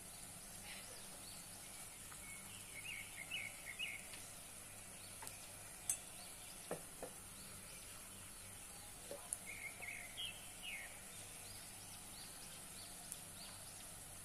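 Faint background ambience: a bird chirping in two short flurries over a steady high hiss, with a few light taps in the middle.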